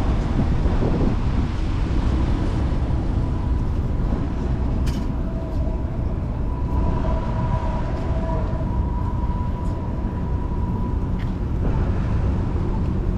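Wind rumbling on the microphone of a camera on a moving bicycle, with traffic noise. A steady two-note whine from a passing vehicle comes in about five seconds in and fades a few seconds later, with a couple of sharp clicks as it starts.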